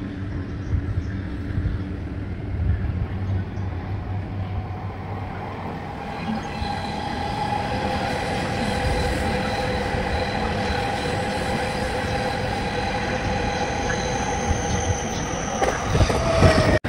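Train running along the tracks close by with a steady rumble of wheels on rail. From about six seconds in, a sustained high squeal of wheels joins it. A few sharp clacks come near the end.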